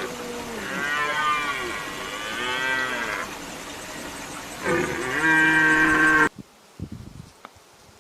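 Several drawn-out animal calls that rise and fall in pitch, some overlapping. The loudest and longest comes near the end and cuts off abruptly about six seconds in, followed by a few faint knocks.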